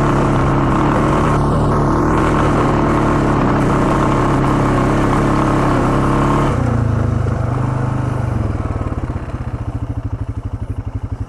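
ATV engine running steadily under throttle, then the throttle is let off about six and a half seconds in and the engine drops to an even, pulsing idle.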